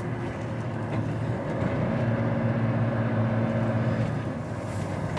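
Volvo HGV tractor unit driving along, heard from inside the cab, pulling an empty skeletal container trailer: a steady diesel engine drone with road noise, and a humming tone that joins for a couple of seconds in the middle.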